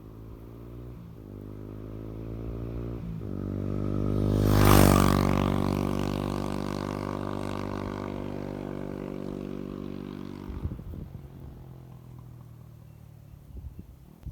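Honda Ape 100's single-cylinder four-stroke engine through a Yoshimura GP-Magnum titanium cyclone aftermarket muffler, accelerating hard and shifting up twice. It gets louder to a peak about five seconds in, then fades away and is gone a little after ten seconds.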